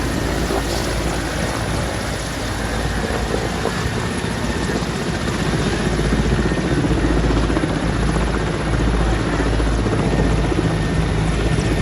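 Helicopter rotor and turbine engine running, a loud steady noise with a heavy low end, as the helicopter takes off.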